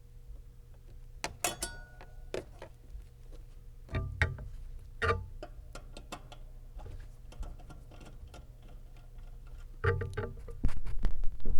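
Irregular clicks, knocks and short metallic clinks of hand tools and wiring being worked inside a sheet-metal air handler cabinet, with a cluster of louder knocks near the end, over a low steady hum.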